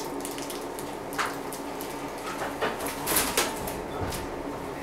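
JR 115 series 3000-subseries electric train heard from inside the car beside the coupler: a steady low hum with sharp coupler clanks and knocks, one about a second in and a louder cluster a little past the middle.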